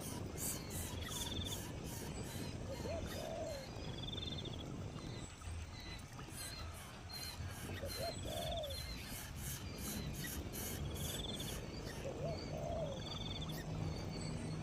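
Insects chirping with rapid high pulsing, and birds calling: a short low call about every four to five seconds and brief high trills in between.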